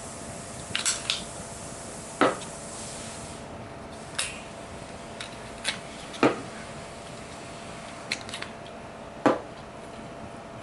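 Scattered handling clicks and knocks, about ten of them at irregular intervals, as a pack of three series-wired 18650 cells is disconnected and pulled off a Parrot Bebop drone.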